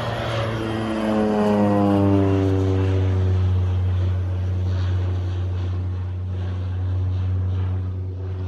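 Crop-duster airplane's propeller engine flying low past: it swells quickly to its loudest within the first two seconds while its pitch slides down as it goes by, then drones on at a steady lower note.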